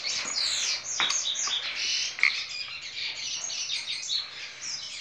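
Small birds chirping continuously, with many quick high chirps overlapping, and a sharp click about a second in.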